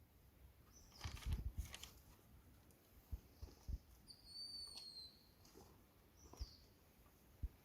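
Faint rustling and a few soft knocks. About four seconds in, one short bird whistle falls slightly in pitch.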